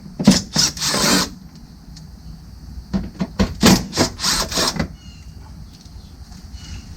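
A cordless bit driver backing Torx screws out of a plastic wheel-well splash guard, with two bursts of clicking and scraping, one near the start and one about three seconds in.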